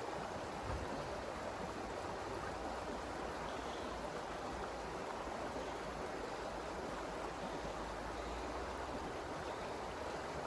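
Creek water running, a steady, unbroken rush.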